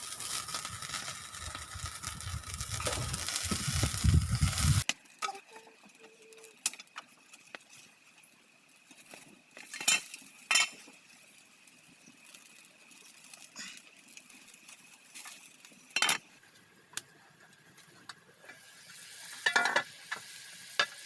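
Cooking sounds: a steady sizzling hiss for about the first five seconds that cuts off suddenly, then quiet with scattered sharp clinks and taps of utensils on cookware.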